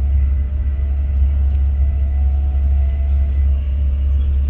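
A Class 43 High Speed Train under way, heard as a loud, steady low rumble with a faint steady whine above it.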